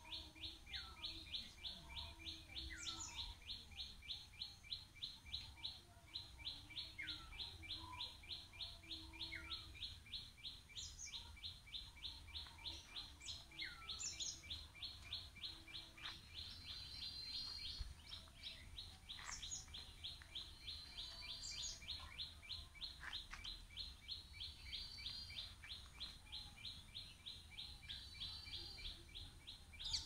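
Birds calling in tropical trees: scattered short chirps that drop sharply in pitch, over a steady, fast, evenly pulsing high-pitched call that runs on without a break.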